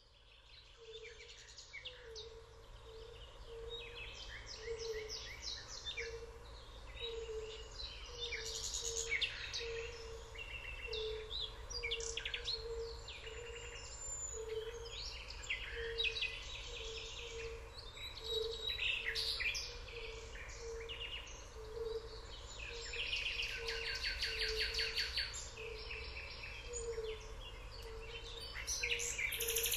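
Several songbirds singing and chirping at once, their phrases overlapping, with a low short note repeating about once a second beneath them.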